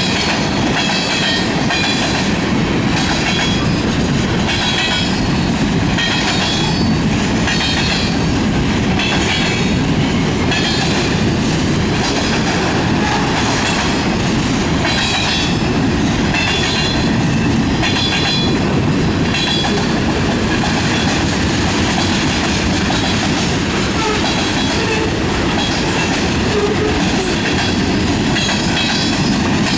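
Manifest freight train's cars rolling past, the wheels clacking over the rail joints in a steady, repeating rhythm.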